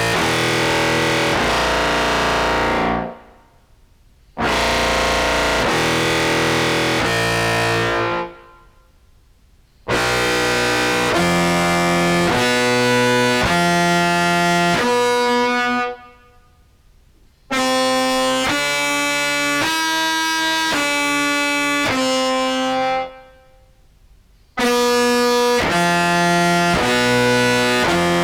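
Contrabass clarinet played through an octave pedal into a fuzz, on a mixed-octave setting led by two octaves up, giving a distorted, many-voiced tone. It plays five phrases of a few changing held notes each, with short breaks between them.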